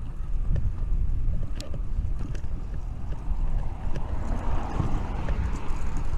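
Wind buffeting the microphone of a body-strapped action camera on a moving fixed-gear bike, a steady low rumble, with scattered sharp clicks and knocks from the loose camera mount rattling. A hiss swells and fades about four to five seconds in.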